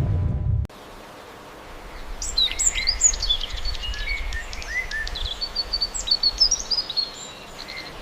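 Small birds chirping and tweeting in quick, varied high notes from about two seconds in, over a steady outdoor hiss. Before that, a low rumble cuts off suddenly under a second in.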